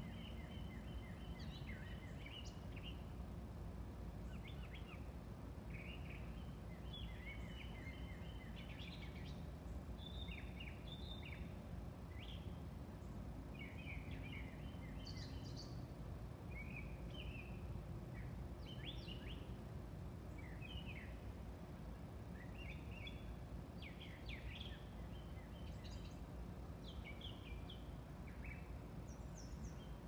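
Several songbirds chirping and singing in short, overlapping calls and trills, over steady low background noise.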